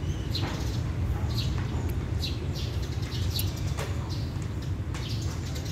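Small birds chirping: short, sharp calls, about ten of them scattered through a few seconds, over a steady low hum.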